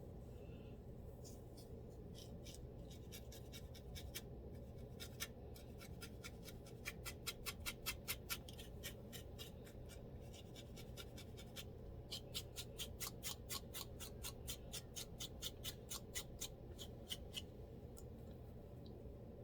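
A scalp being scratched to loosen dandruff: quick, short scraping strokes, about four or five a second, coming in two runs.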